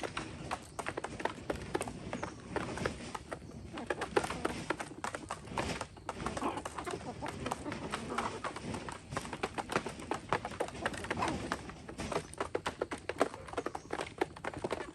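Free-range chickens feeding: many rapid, irregular pecking and scratching taps, with the odd bird call among them.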